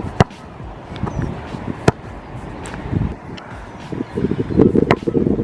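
A few sharp single knocks, the loudest about two seconds in, over a low, choppy rumble like wind on the microphone.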